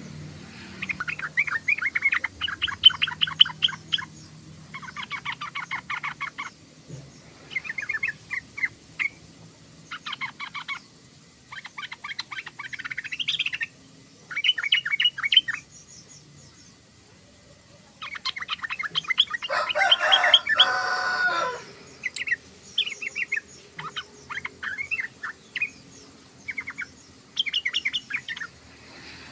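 Yellow-vented bulbul chattering in a string of short, fast bursts of high notes, each a second or two long, with a louder and fuller burst about two-thirds of the way through.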